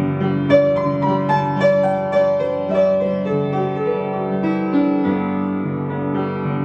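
Instrumental music on a keyboard: a melody moving step by step over held chords, without singing.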